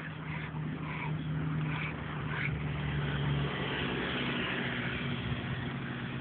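A motor vehicle engine running steadily with a low, even hum, plus a few short faint higher sounds in the first two and a half seconds.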